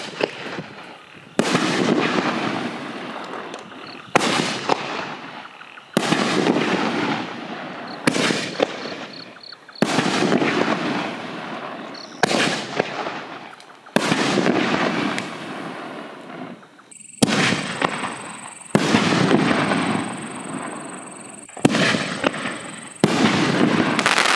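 Aerial canister shell fireworks going off one after another: a sharp bang about every two seconds, each trailing off into a long rumbling crackle.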